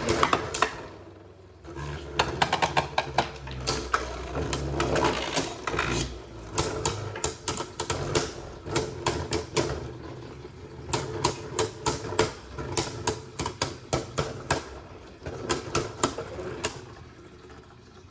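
Beyblade Burst tops spinning and battling in a plastic stadium: a steady whir under many rapid, irregular clicks as the tops strike each other and the stadium walls.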